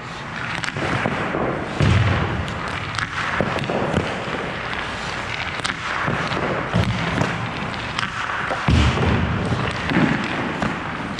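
Ice hockey rink: pucks and sticks striking with repeated low thuds and sharp clacks over a steady rink noise.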